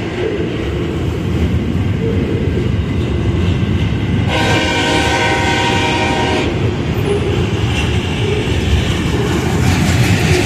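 A freight train passing close by, led by locomotive CSX 7105, with a loud steady rumble of engines and wheels on rail. A little after four seconds in, the locomotive's air horn sounds once for about two seconds.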